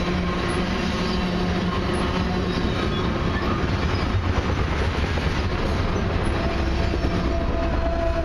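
Loaded crude-oil tank cars rolling steadily past, with their wheels rumbling and clacking on the rails. Near the end the pushing diesel locomotive at the rear arrives, adding a low engine drone and a steady whine.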